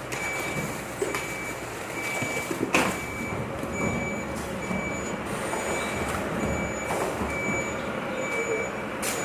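A truck's reversing alarm beeping evenly, about three beeps every two seconds, over the steady running of its diesel engine. There are a few sharp knocks, the loudest about three seconds in.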